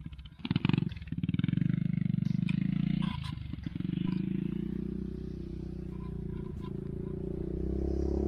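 ATV engine running close by, surging loudly about half a second in, then running steadily with a brief dip a little after three seconds.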